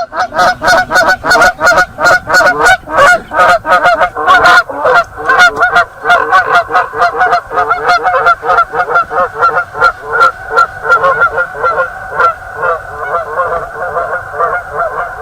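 Geese honking: many overlapping honks in quick, continuous succession.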